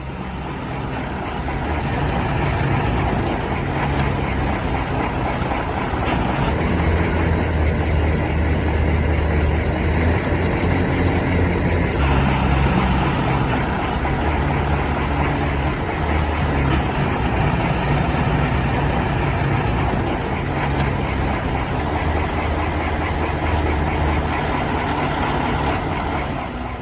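Heavy diesel engine running steadily at low revs, with a deep hum that shifts slightly in pitch and strength over time.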